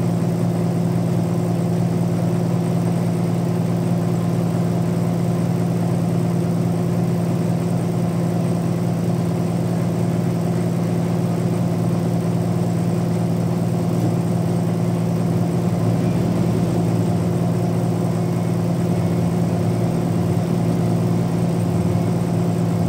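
Sawmill machinery running steadily: a constant low engine hum that holds the same pitch and level throughout.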